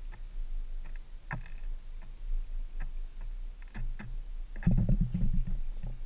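A bird pecking and shuffling at a wooden bird feeder close by: irregular sharp taps and knocks on the wood, then a quick flurry of louder thumps near the end.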